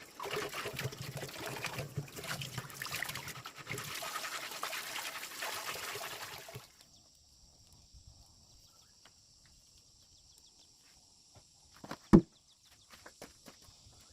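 Water pouring and trickling, which stops suddenly about six and a half seconds in. It is followed by a faint steady high-pitched buzz, a few light clicks, and one sharp knock near the end.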